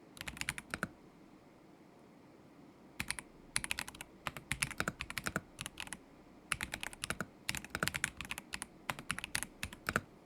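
KZZI K75 Pro mechanical keyboard with Moment linear switches being typed on in runs of quick keystrokes, with a pause of about two seconds after the first short run and brief breaks between the later ones.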